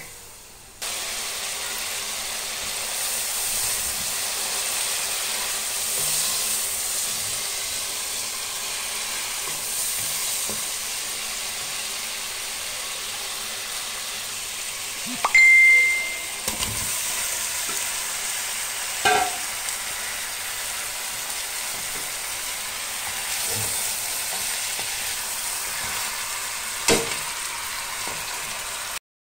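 Onion, green chilli and spice masala sizzling steadily in hot oil in a pan while being stirred, with a few knocks of the spatula against the pan. A short, clear, high ding about halfway through is the loudest sound.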